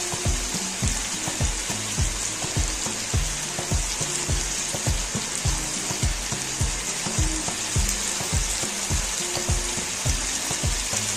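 Oil sizzling steadily as chicken and onions fry in a karahi, heard as an even hiss. Background music with a steady thumping beat plays over it.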